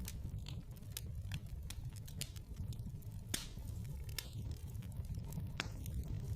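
Wood fire burning in a fireplace, crackling with irregular sharp pops over a low steady rumble; the loudest pop comes about halfway through.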